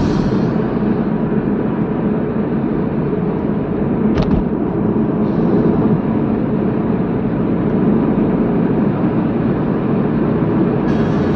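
Steady road and engine noise of a moving car heard from inside the cabin, with one short knock about four seconds in.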